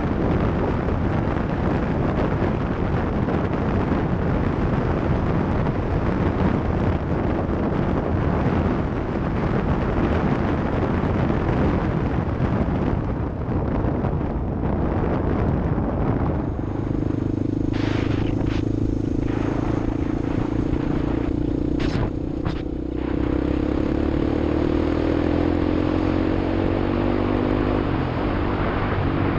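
Motor vehicle driving off-road: a rough, noisy rumble first, then, a little past halfway, a steady engine drone comes through, with a few sharp clicks soon after.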